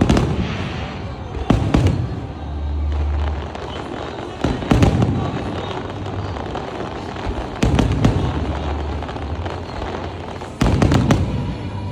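Aerial fireworks shells bursting in a display: about five loud bangs a few seconds apart, each followed by a low rumbling echo. Faint music plays underneath.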